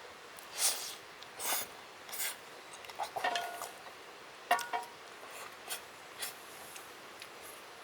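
Cutlery scraping on a plate in a series of short strokes, with a light metallic clink about three and again about four and a half seconds in.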